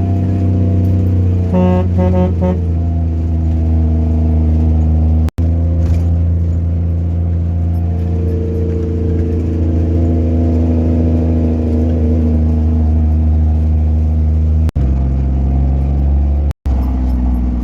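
Truck engine running steadily, a low droning hum heard from inside the cab, with a brief higher-pitched chopped sound about two seconds in. The sound drops out completely for a moment three times.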